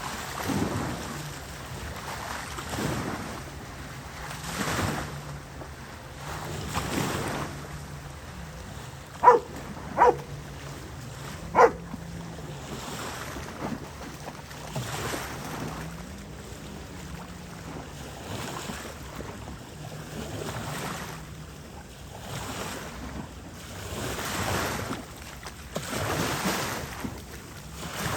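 Small waves washing onto the beach in a rise-and-fall rhythm every couple of seconds, with wind on the microphone and the faint, steady low hum of a distant boat motor. About a third of the way in, three short, sharp, loud sounds stand out above it.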